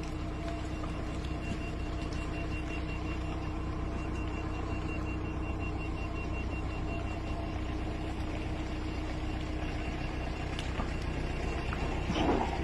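Steady vehicle running noise: a low engine and road hum with a faint thin whine above it.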